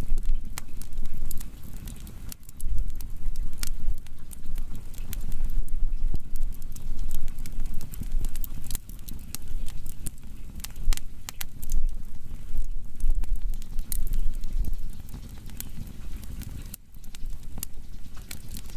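Firewood burning, with irregular sharp crackles and pops over a steady low rumble of the flames.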